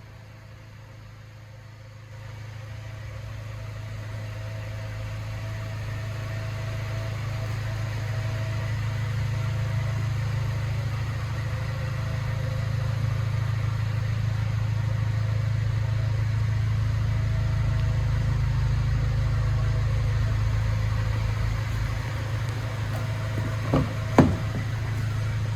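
Honda K20A inline-four idling steadily through a Spoon N1 exhaust, a low even hum that grows louder over the first several seconds and then holds. Two sharp knocks sound close together near the end.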